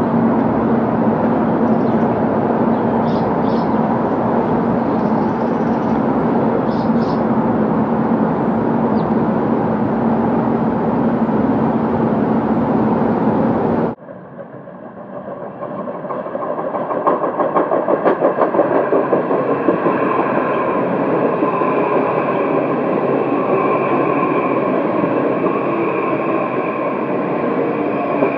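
A steady loud noise with a low hum cuts off abruptly about halfway through. Then an electric commuter train pulls in along the platform: its sound builds over a few seconds into steady wheel noise with several held whining tones.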